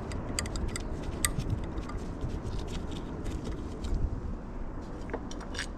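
Scattered light clicks and scrapes of metal engine parts being handled and turned over during a teardown, over a steady low background rumble.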